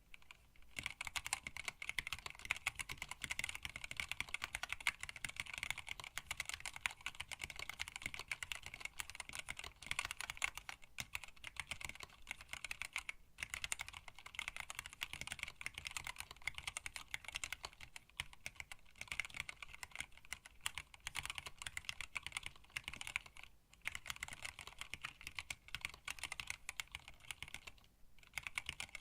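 Fast, continuous typing on a hand-wired split mechanical keyboard with Tealios linear switches, PBT keycaps and an acrylic case. The keystrokes start about a second in and break off for a few brief pauses.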